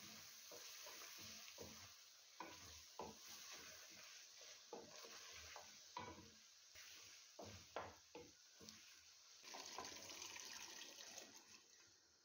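Faint sizzling of chicken cooking in wet masala in an aluminium pot, with a wooden spoon stirring and scraping against the pot in irregular strokes.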